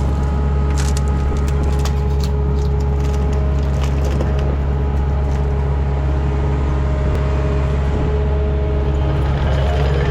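TL10 compact track loader's diesel engine running steady under load with a steady whine, while oak wood cracks and splinters several times in the first few seconds as the tree shear cuts and breaks the tree.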